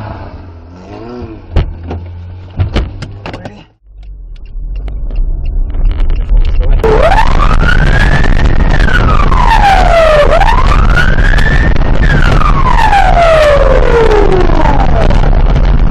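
Wailing emergency-vehicle siren that glides slowly up and down in pitch, each sweep taking a few seconds, over a loud steady rushing noise. Before it starts, in the first few seconds, there are a few sharp knocks.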